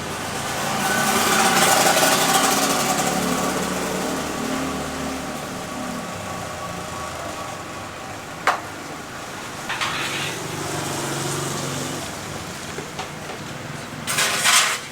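A motor vehicle engine passes by on the street, swelling for a few seconds and then fading. A sharp click comes about halfway through, and a short hissing rustle comes near the end.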